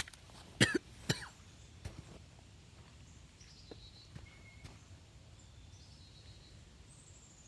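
A few sharp knocks in the first second or so, then faint, scattered high bird chirps over quiet outdoor background.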